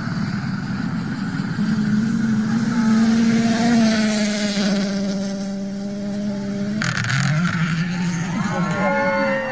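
Rally car engine running hard as a car passes, its pitch falling in the middle. About seven seconds in the sound cuts to another engine revving up, with voices shouting near the end.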